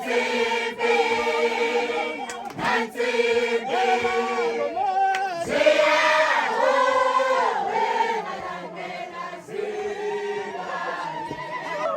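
A group of voices singing together like a choir, in long held notes that glide from one pitch to the next.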